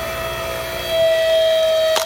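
A 220-volt, 2,600-watt electric log splitter's motor and hydraulic pump running with a steady high whine that grows louder about halfway through, as if coming under load. It ends in a sharp crack, and the level drops suddenly.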